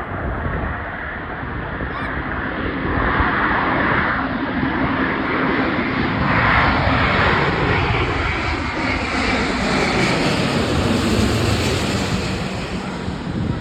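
Jet noise from a landing Airbus A350-900's two Rolls-Royce Trent XWB turbofans, a steady rushing sound. It grows louder a few seconds in as the airliner comes past, then fades near the end.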